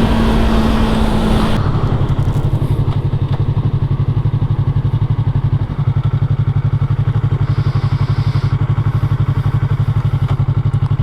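Motorcycle engine running as the bike slows, with wind rush over it, then settling to a steady idle about a second and a half in once the wind noise drops away.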